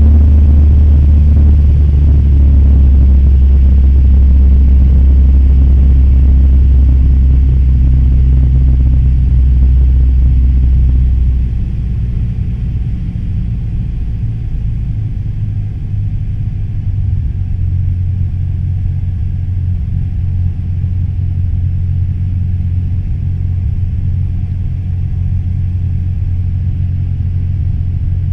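Cessna 172M Skyhawk's four-cylinder Lycoming engine and propeller droning steadily in flight. About eleven seconds in, the drone steps down in loudness and its low note changes.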